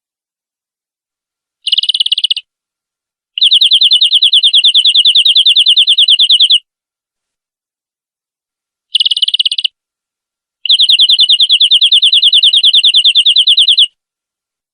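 Domestic canary song played as a looped lure recording: a short buzzy burst followed by a rapid, even trill lasting about three seconds. The same phrase comes twice, with silent gaps between.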